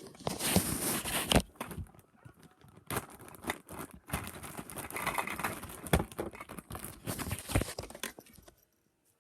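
Crinkling and rustling in irregular bursts, with scattered sharp clicks.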